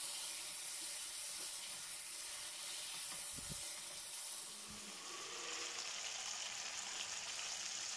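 Marinated chicken frying in ghee in a non-stick wok: a steady sizzle, with a faint knock or two of the stirring spatula about three and a half seconds in.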